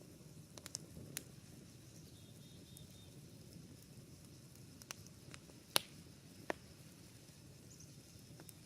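Campfire burning with a low steady rumble and scattered sharp pops and cracks from the wood, the loudest pop a little past halfway. About two seconds in, a bird gives a short run of faint high chirps.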